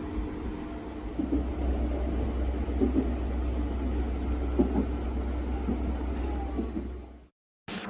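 A moving train's steady low rumble with a steady hum and a few light knocks. It fades out about seven seconds in.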